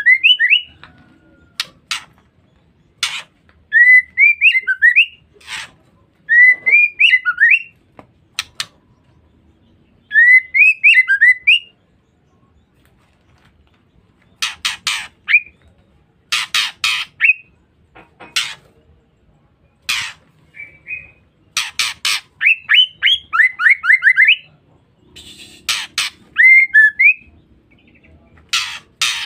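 Female white-rumped shama calling: short phrases of quick rising whistled notes, repeated every second or two, mixed with sharp harsh ticks.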